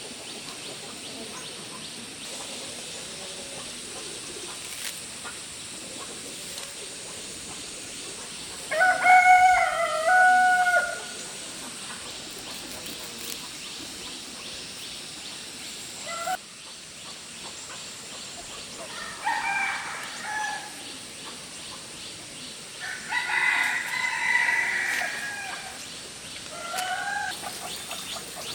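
Rooster crowing: one loud, drawn-out crow about nine seconds in, then several weaker crows later on.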